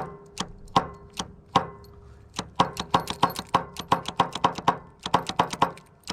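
Starter on a John Deere LX255 lawn tractor's Kohler 15 hp engine clicking repeatedly as the key is worked, without cranking the engine over. The clicks come a few a second at first, then quicker, about four a second. The owner puts the no-crank down to the mower having sat too long.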